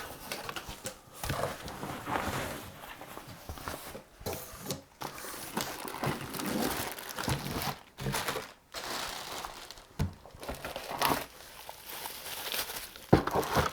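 Packaging being opened and handled: irregular crinkling and rustling of wrapping, with a few sharp knocks.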